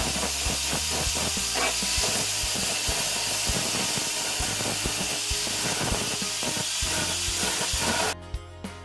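A loud, steady hiss like a spray or jet of air, starting abruptly and cutting off suddenly about eight seconds in, over background music.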